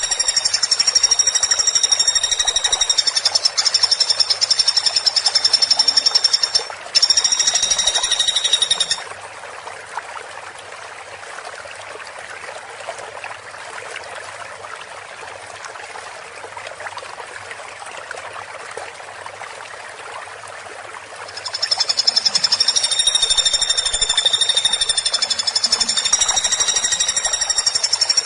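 Woodpecker giving a rapid, dense, high-pitched rattling trill. It runs for about nine seconds, breaking off briefly near seven seconds, then stops for about twelve seconds with only a steady hiss before starting again about 21 seconds in.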